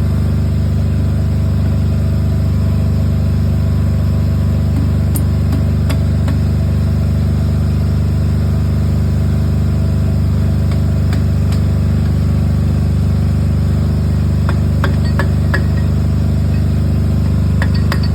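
An engine running steadily at one constant speed, a deep even drone, with a few light metallic clicks near the end.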